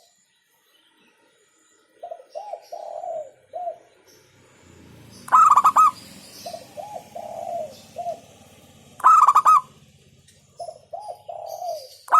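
Zebra dove (perkutut) cooing: three repeated phrases, each a few soft, lower rounded coos followed by a loud, higher-pitched cluster of quick notes. The first phrase starts about two seconds in.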